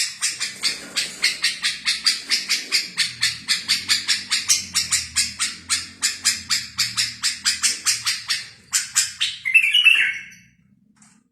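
A small songbird singing a fast, even run of repeated high chirps, about five a second. About nine seconds in it gives a louder, rougher burst, then stops.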